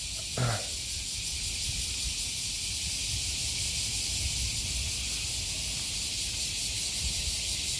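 Cicadas singing in a chorus: a steady, high-pitched, hiss-like drone.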